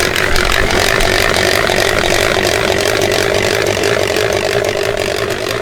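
Electric spiral potato cutter for tornado potatoes running, a loud steady motor drone with a regular pulsing as the potato is spun and cut.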